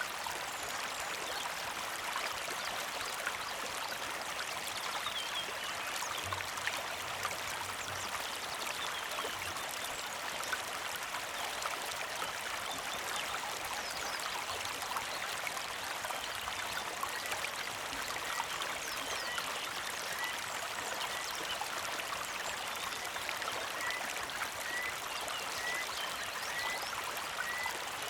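Small mountain creek trickling and burbling steadily. In the second half a bird repeats a short chirp over and over, a little more than one a second, with a few higher chirps earlier.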